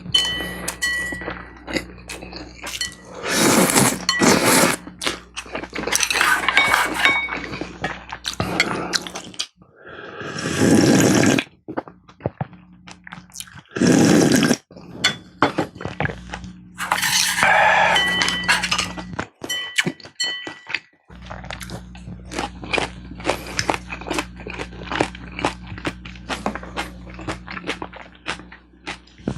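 Close-miked eating of spicy beef soup and side dishes. Utensils clink against the bowls with short ringing tones, and several longer noisy stretches of slurping or scooping are heard among constant small wet chewing clicks. A low electrical hum runs underneath.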